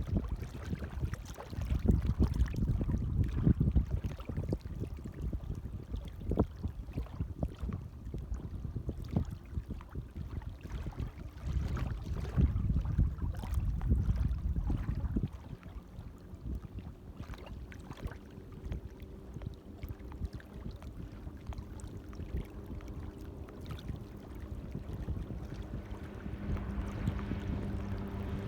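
Light waves lapping at the water's edge, mixed with wind buffeting the microphone in uneven gusts; louder for the first half. A faint steady low hum comes in about halfway.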